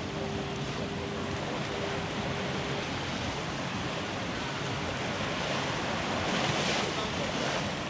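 Surf washing onto the beach, a steady rush of breaking waves that swells once near the end, with a faint steady hum in the first few seconds.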